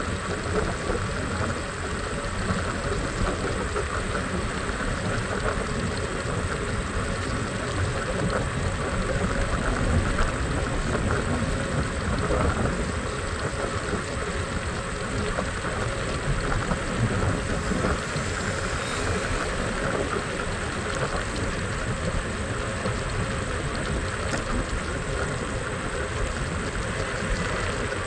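Steady rushing noise of a scooter ride through city traffic, with road, engine and air noise blended into one unbroken din and a few light clicks near the end.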